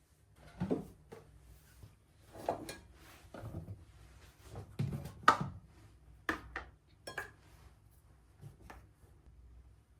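Dishes and utensils knocking and clinking as kitchenware is handled, in a string of separate knocks with short pauses between them; the loudest clatter comes about five seconds in.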